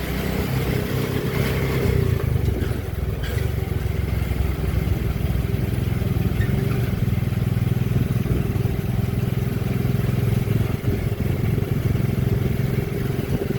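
Motorcycle engine of a three-wheeled motorcycle taxi running steadily under way, heard from the passenger carriage behind it, mixed with road and wind noise.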